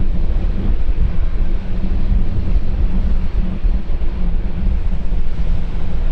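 Wind buffeting the microphone over a steady low rumble, with a faint engine drone of a jet airliner in the distance.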